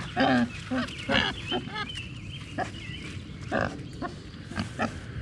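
Pigs grunting and squealing at close range, a quick run of short calls with a higher, gliding squeal about two seconds in.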